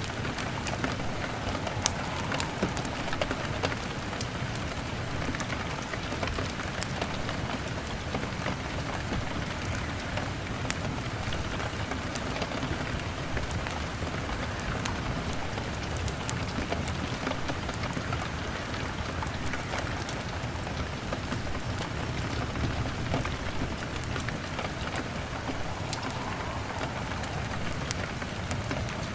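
Steady rain on window glass, mixed with the irregular sharp snaps and pops of a crackling wood fire.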